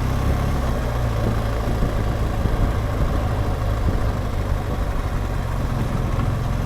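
BMW R1200GSA's boxer-twin engine running steadily at low revs, with no change in pitch or speed.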